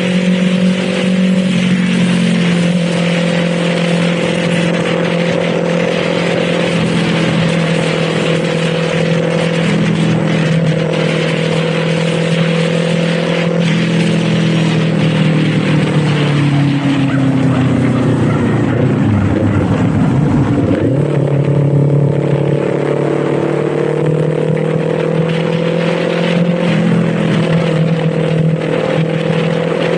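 Kawasaki Z400's parallel-twin engine running under way at steady revs. About two-thirds of the way through, the revs drop away and then climb back up.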